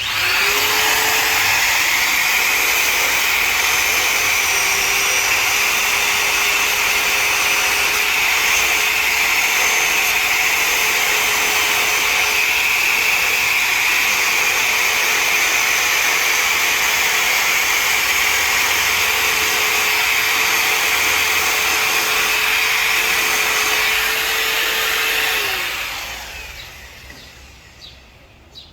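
Wagner PaintEater electric palm grinder running steadily, its abrasive disc grinding down a nylon dog chew bone. After about 25 seconds it is switched off and winds down.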